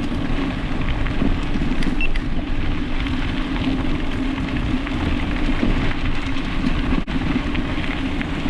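Electric bike riding along a trail: continuous crackling tyre noise with a steady low hum underneath.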